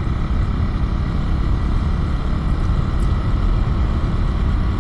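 Steady rush of wind and engine noise from a Husqvarna motorcycle being ridden at an even speed, the wind heavy on the microphone.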